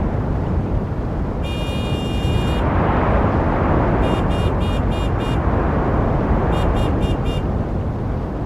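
Steady street traffic noise of passing vehicles. A high-pitched horn sounds once for about a second near the start, then in two quick runs of short toots, five and then four.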